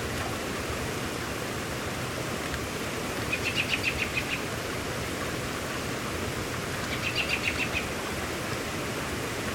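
Steady rain hiss, with a bird trilling twice over it, each a quick run of repeated high notes lasting about a second.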